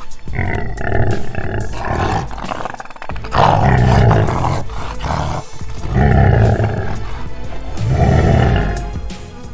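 Lions of a pride growling and snarling over meat at a feeding, in about five loud bouts of one to two seconds each. Background music plays underneath.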